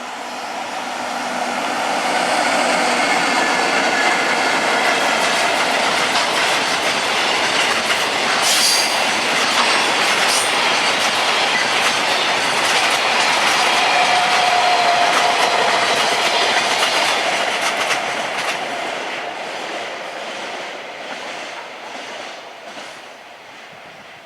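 Freight train rolling past, its wheels clattering over the rail joints, with a brief wheel squeal about fourteen seconds in. It grows loud within the first couple of seconds and fades away over the last several seconds.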